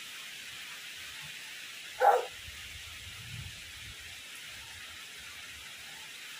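Steady hiss of heavy rain and wind, with a single short, loud animal call about two seconds in.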